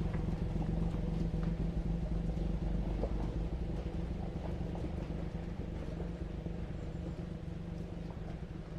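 Suzuki Jimny engine running steadily, a low hum that slowly fades away, with faint ticks and crunches over it.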